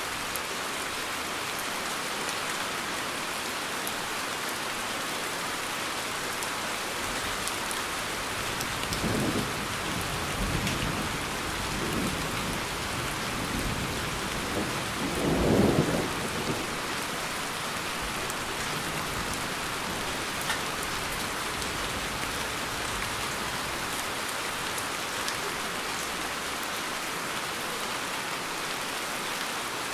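Steady rain falling. Thunder rumbles in swells through the middle and is loudest about halfway through.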